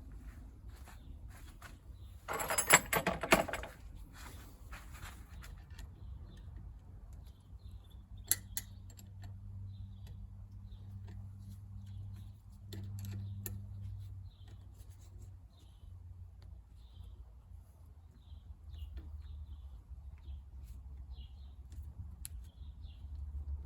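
Metal parts and tools clinking and rattling, with one loud rattling burst about two seconds in, over a low steady hum.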